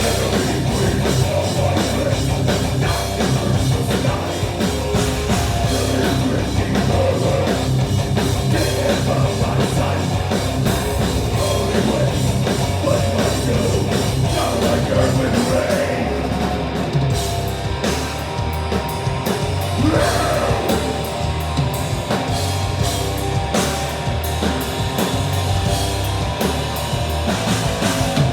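Death-doom metal band playing live and loud: distorted electric guitars, bass and a drum kit in a continuous heavy passage.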